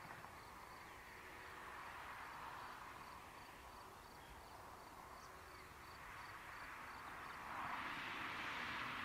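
Distant jet engine noise from a Boeing 767 freighter, a broad hiss that swells and grows clearly louder about seven and a half seconds in. A cricket chirps faintly and steadily, about twice a second.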